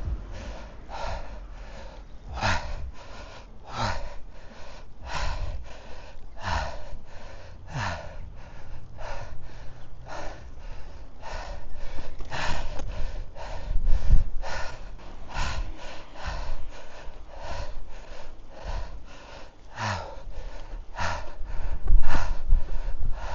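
A cyclist's heavy, rhythmic panting, about one and a half loud breaths a second, as he climbs a steep hill out of the saddle near exhaustion, over a low rumble of wind and road noise.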